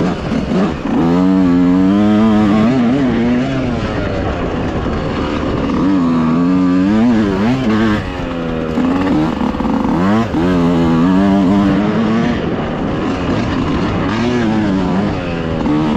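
Dirt bike engine running under load on a trail, its pitch rising and falling again and again as the throttle is opened and closed through corners.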